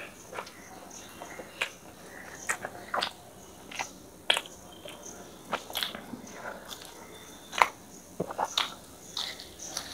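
A person chewing a mouthful of chicken korma and roti close to a clip-on microphone. Wet mouth clicks and smacks come at irregular moments, the loudest about three quarters of the way through.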